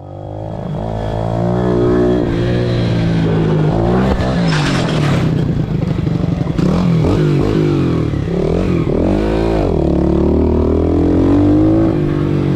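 Pit bike engine being ridden hard, revs repeatedly climbing and dropping as it accelerates and shuts off.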